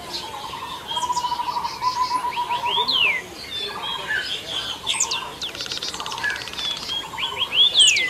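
Several forest birds calling: a fast run of repeated low notes, sharp falling whistled notes, and a buzzy rattling trill about halfway through.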